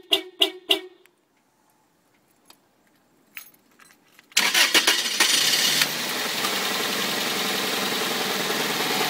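Keys clicking in the ignition, then the Toyota Celica GT 2000's engine cranks and starts about four seconds in, louder for a moment before settling into a steady idle. The idle carries the knock the owner takes to be from the valves, a knock that goes away at 1500 to 2000 rpm.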